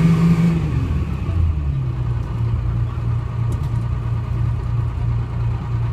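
GMC New Look bus's Detroit Diesel 6V71 engine running; its note falls over the first second and a half as the revs drop, then settles into a steady low drone.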